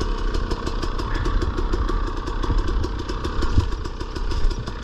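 Dirt bike engine running steadily at low revs, an even, rapid putter with no revving.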